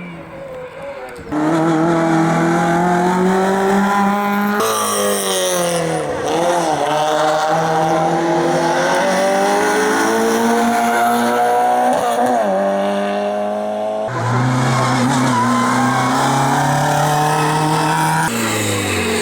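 Racing car engines pulling hard up and down through the gears, with tyre squeal. The engine sound changes abruptly several times, as if switching between different cars.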